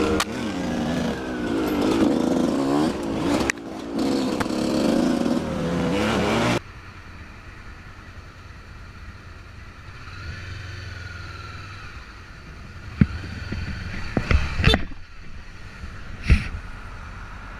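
A siren wailing, rising and falling over vehicle noise, which cuts off abruptly about six and a half seconds in. It gives way to a quieter steady engine hum with a few sharp knocks near the end.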